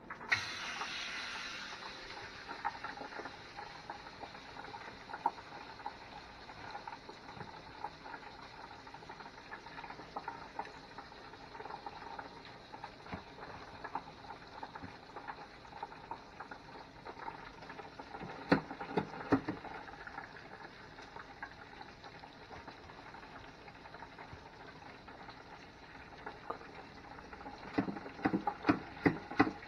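A crappie fillet laid into a hot frying pan of butter sizzles sharply at once, then keeps frying with a steady sizzle and crackle. A few sharp clicks and knocks come about two-thirds through and again near the end.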